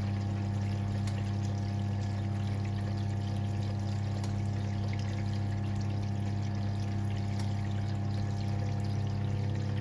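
Siemens WA4600 washing machine from 1978 moving water through its drum. A steady low electric hum runs under the sound of pouring, splashing water.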